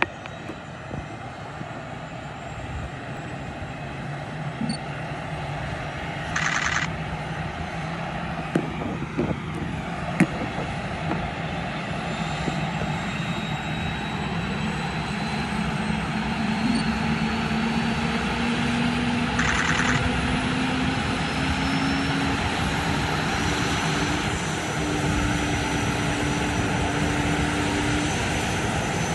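Rescue helicopter starting up, its turbine whine and rotor rising steadily in pitch and growing louder as the engines spool up. Two short buzzing tones sound about a third of the way in and again about two-thirds in.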